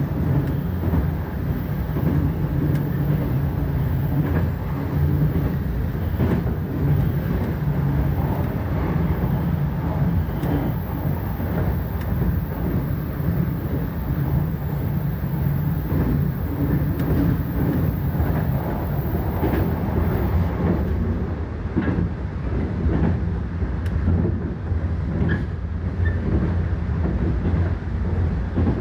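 JR Freight train running past: a steady heavy rumble of wagons, with scattered wheel clicks over the rail joints.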